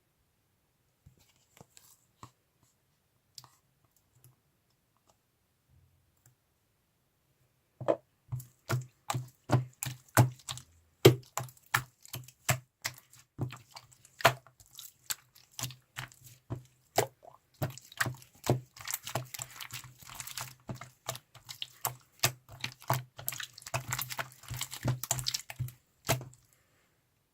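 Slime being squeezed and pressed by hand, giving a run of sharp clicks and pops several times a second, thickening into a dense crackle near the end and then stopping. A few faint clicks come first.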